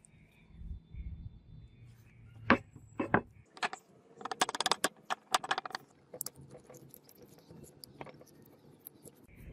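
Light clinks and taps of small hard objects: a few single strikes, then a quick cluster of rattling clicks in the middle, then scattered ticks.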